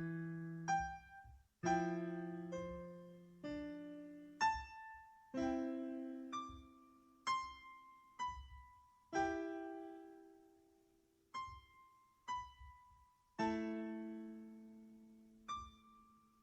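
Background music: slow solo piano, single notes and chords struck roughly once a second, each left to ring and fade.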